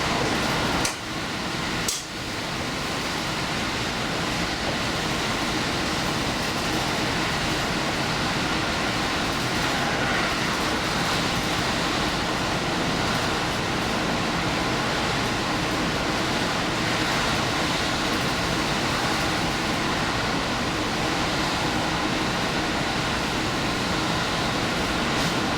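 Diesel express train running steadily on the line, a constant rumble and rail noise, with two brief sharp drops in the noise about one and two seconds in.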